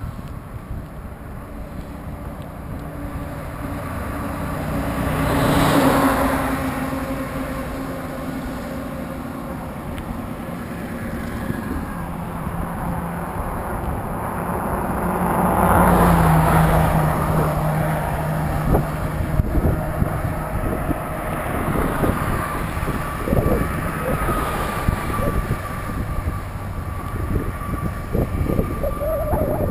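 Highway traffic passing: two vehicles go by one after another, each swelling and fading, about six and sixteen seconds in, over a steady rush of road noise. Wind buffets the microphone in the later part.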